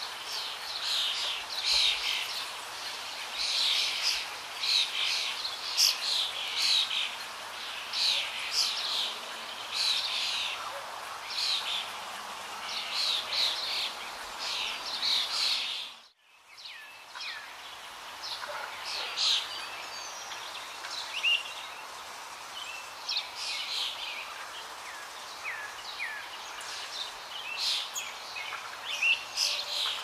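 Recorded songbird song: rapid twittering and chattering chirps over a steady background hiss, broken by a sudden cut to silence about halfway. After the cut a different recording follows, with sparser chirps and short down-slurred whistles.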